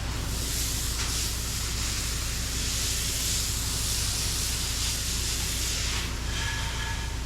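Pressure washer wand spraying a downstreamed bleach (sodium hypochlorite) solution, a steady hiss that eases off about six seconds in, over the steady drone of the gas-engine pressure washer.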